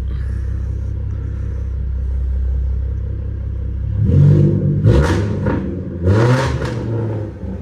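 A 2013 Ford Mustang V6 idles steadily. About four seconds in it is given three short throttle blips, and each time the revs rise and drop back to idle.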